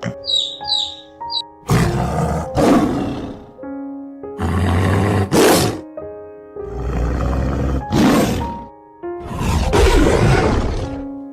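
A large animal roaring four times, each roar a second or two long, over soft background music with piano notes. Two short, high chirping calls come in the first second.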